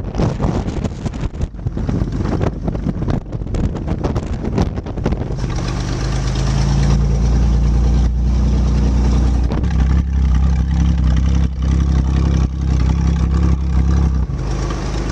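Wind rumbling on the microphone, then from about five seconds in a motor vehicle's engine running steadily close by, a loud low drone.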